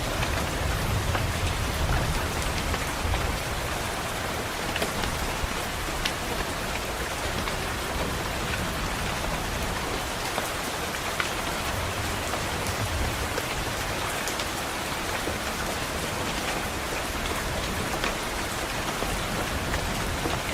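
Steady rain pattering on a window, with scattered sharp ticks throughout. Soft low rumbles of distant thunder come about a second in and again a little past halfway.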